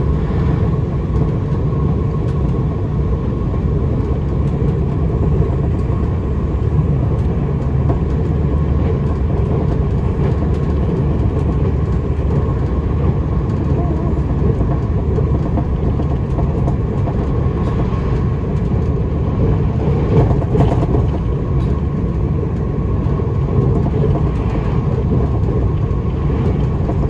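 Puyuma Express TEMU2000 tilting electric train heard from inside the carriage while running at speed: a steady, dense low rumble of wheels on rails, with a faint constant whine above it.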